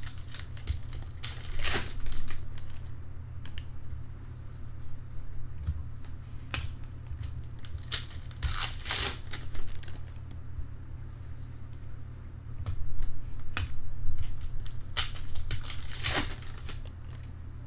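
Baseball trading cards being handled and flipped through: short, papery swishes and flicks as cards slide against each other, coming irregularly, with a few louder swipes, over a steady low hum.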